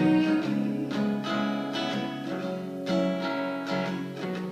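Acoustic guitar playing between sung lines, chords struck about once a second and left to ring.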